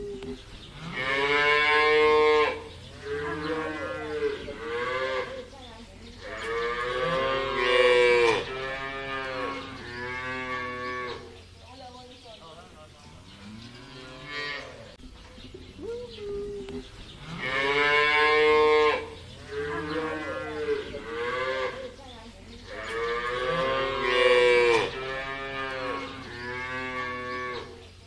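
Cattle mooing: a series of about eight long, loud moos from several cows, some calls running into each other, with a quieter lull about halfway through.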